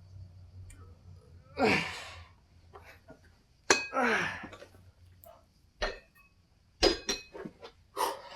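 A man's two forceful, straining exhalations, each sliding down in pitch, as he pushes through a set of dumbbell chest presses. Several sharp metal clinks from the dumbbell plates follow in the second half.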